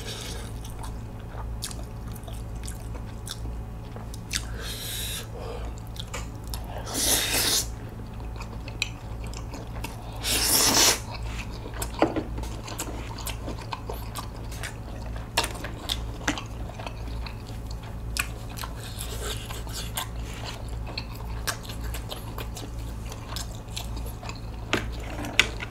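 Close-miked chewing of a mouthful of spicy cold buckwheat noodles with sea snails (golbaengi): a steady run of wet mouth clicks and chews, broken by a few louder noisy bursts about 5, 7 and 10 seconds in.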